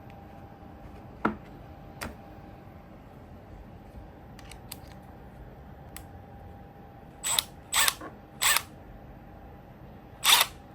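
Small parts of a Milwaukee drill bit set being handled: two sharp clicks, then four short, louder clicks or rattles in the second half, three in quick succession and one more near the end, over a faint steady hum.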